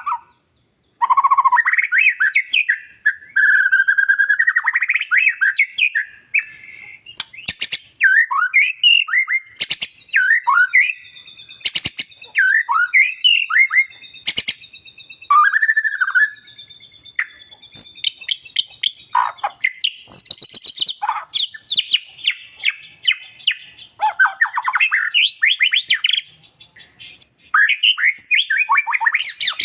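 White-rumped shama (murai batu) singing a fast, varied song of whistled and chattering phrases, with sharp clicks between phrases.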